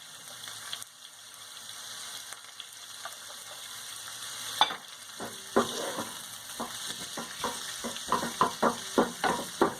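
Squid pieces frying in oil in a frying pan, a steady sizzle. From about halfway in, a utensil stirs them and knocks against the pan in quick strokes, most often near the end.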